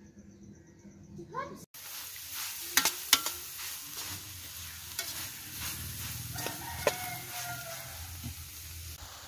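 Chopped chicken sizzling in a metal wok from about two seconds in, stirred with a metal spatula that clinks and scrapes against the pan several times. A rooster crows in the background about two-thirds of the way through.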